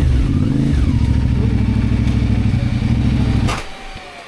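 CF Moto 450MT's parallel-twin engine running steadily at low revs, then switched off about three and a half seconds in: the sound cuts off suddenly with a sharp click.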